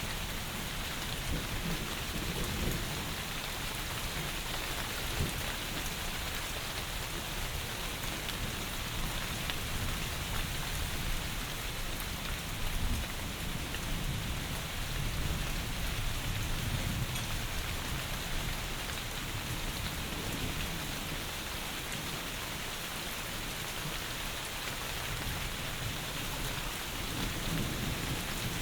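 Heavy rain falling steadily, a dense even hiss, with low rumbles swelling up underneath it a few times.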